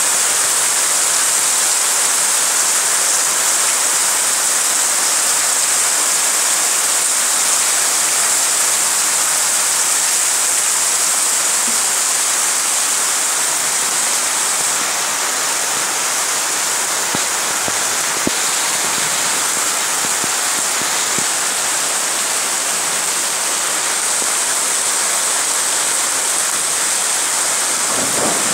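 Hard tropical rain pouring down steadily in a dense, even hiss.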